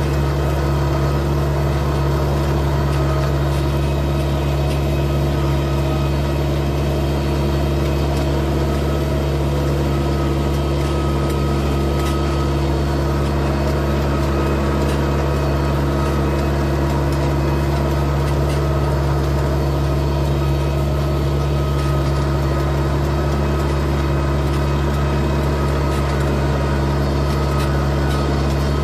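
Tractor engine running steadily at a constant speed, its even drone unchanging throughout.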